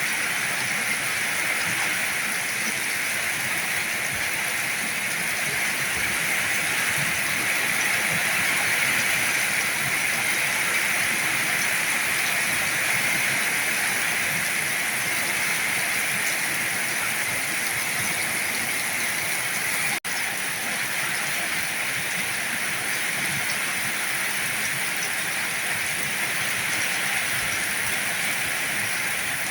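Heavy rain falling steadily, an even hiss of water. It drops out for an instant about two-thirds of the way through.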